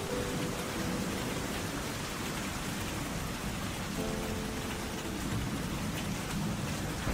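Steady rain falling, with soft background music coming in briefly near the start and again about four seconds in.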